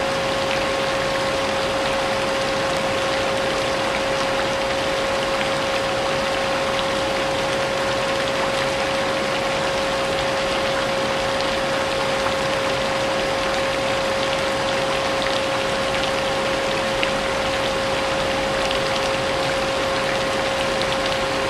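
Vacuum cleaner running steadily with a constant motor whine, mixed with steady rain, as a continuous white-noise bed.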